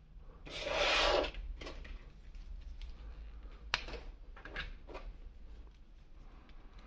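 Hands handling a plastic action figure and its packaging: a loud rustling scrape about half a second in, then a few light plastic clicks and taps.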